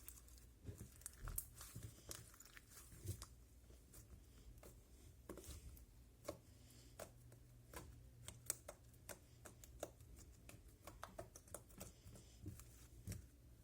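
Homemade slime being squished and worked by hand, giving soft, irregular sticky clicks and pops, several a second.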